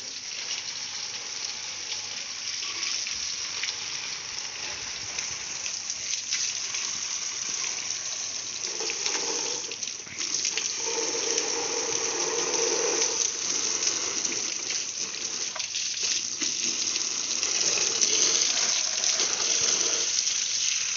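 Jet of water spraying onto a motorcycle during a wash, a steady hiss and splash. A deeper splashing note comes and goes in the middle and near the end as the spray moves over different parts, with a short break about ten seconds in.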